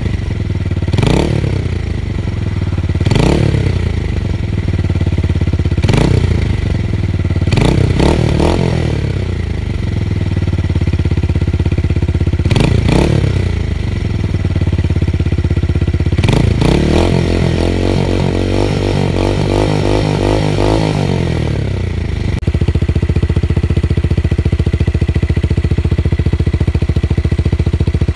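Tuned motorcycle with a deep, bassy exhaust, idling with a series of short throttle blips every two or three seconds. About two thirds of the way in it holds a longer, fluttering rev for several seconds, then drops back to a steady idle.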